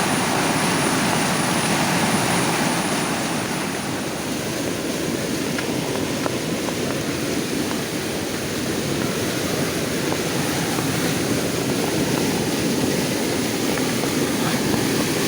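Steady rush of water gushing out of a drainage pipe, mixed with the noise of heavy rain.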